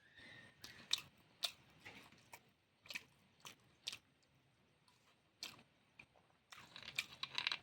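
Eating sounds close to the microphone: chewing and biting, with sharp mouth clicks and smacks every half second or so and a denser burst of crunching near the end.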